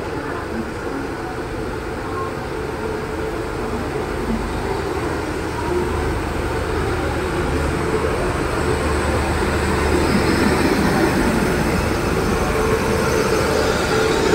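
WAP-7 electric locomotive pulling a passenger train out of the station and passing close by, followed by its coaches rolling past. The sound grows gradually louder as the train gathers speed, with a steady low hum for several seconds in the middle.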